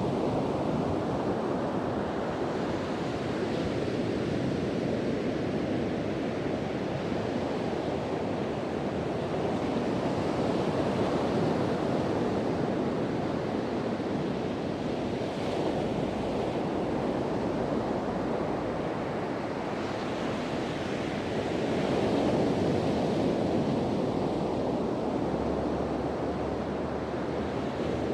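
Sea surf washing onto a beach in steady swells, with wind buffeting the microphone.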